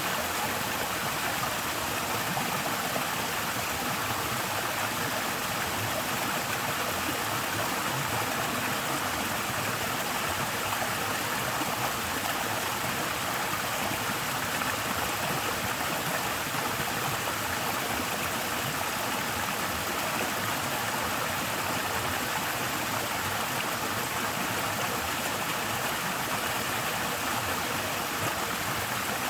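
Waterfall running with a somewhat low flow of water: a steady, even rush and splash of falling water, gentle in sound.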